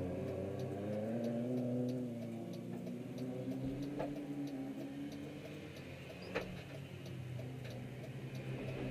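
Peugeot 205 MI16's 16-valve four-cylinder engine idling, its pitch sagging slightly and picking up again, with a light regular ticking and two sharper clicks about four and six seconds in.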